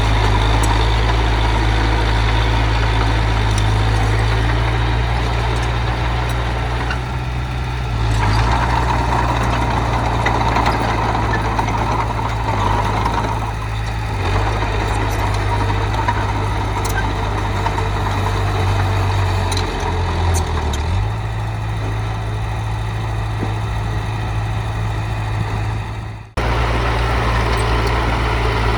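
Heavy diesel engine of construction machinery running steadily, its engine speed shifting a few times. The sound cuts out for an instant near the end, then carries on.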